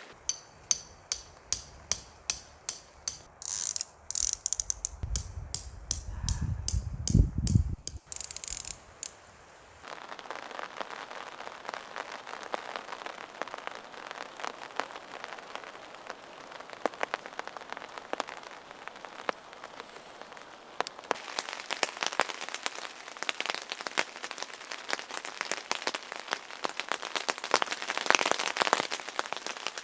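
A run of evenly spaced ratchet-like mechanical clicks, about two or three a second, for the first several seconds. Then rain patters steadily on the tent.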